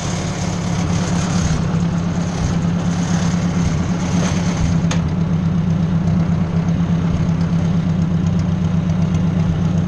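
Ford 600 tractor's four-cylinder engine running at a steady speed, getting a little louder about a second in, with a brief click about halfway through.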